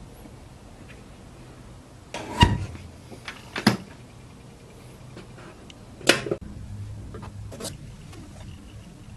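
Several sharp knocks and clatters of objects being handled, four in all, the first two seconds in and another about six seconds in the loudest, over a low steady hum.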